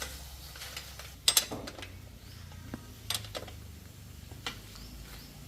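Metal tools and bicycle parts clinking and knocking together: a few sharp metallic clicks, the loudest pair about a second in, over a steady low hum.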